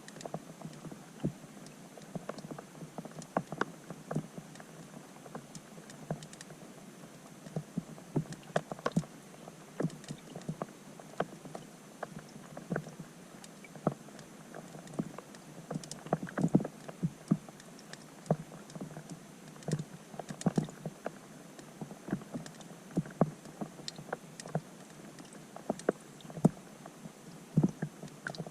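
Raindrops striking a pond's surface, heard from underwater through a GoPro's waterproof housing: irregular ticks and plinks, a few a second, over a steady faint hiss.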